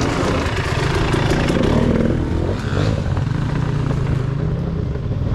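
Dirt bike engine running and revving as the rider pulls away, the engine note rising and falling about two to three seconds in.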